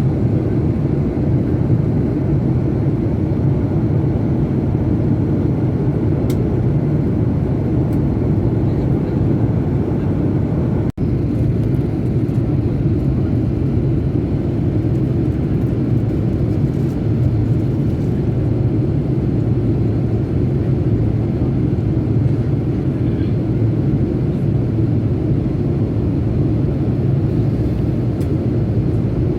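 Airplane noise: a loud, steady low rumble that holds level throughout, cutting out for an instant about eleven seconds in.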